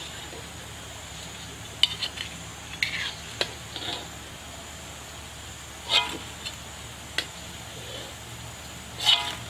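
Scattered clinks and scrapes of a utensil against a pan, about half a dozen over a steady low background hum.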